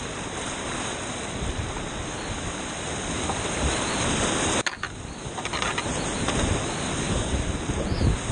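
Whitewater rapids on a creek rushing steadily close to the microphone, with water and wind noise on it and a sharp knock with a brief dropout about halfway through.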